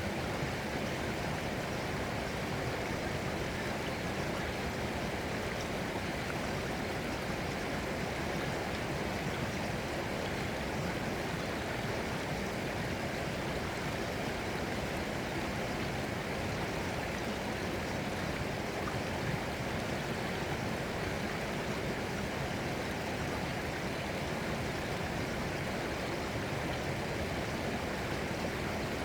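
Flowing water, a steady, even rush that holds unchanged throughout.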